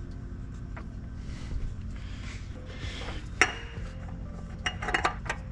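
Metal tools and parts being handled: a few sharp metallic clinks and rattles, the loudest about three and a half seconds in and a cluster near five seconds, over a steady low hum.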